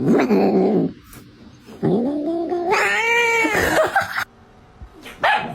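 Domestic cat yowling: a short harsh cry, then a long drawn-out yowl starting about two seconds in that rises and then falls in pitch.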